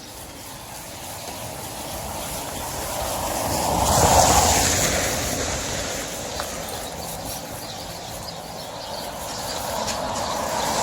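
A vehicle passing by, its tyre noise hissing on the wet road, swelling to a peak about four seconds in and then fading. A second vehicle approaches near the end.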